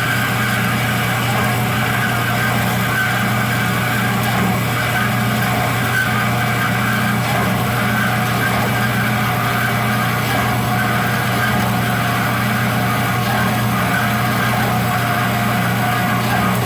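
A power saw cutting through 6x8-inch, half-inch-thick steel angle iron. It makes a steady, unchanging drone with a higher whine held over it.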